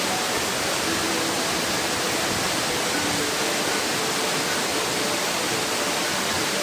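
Waterfall pouring: a steady, dense rush of falling water that stays even throughout.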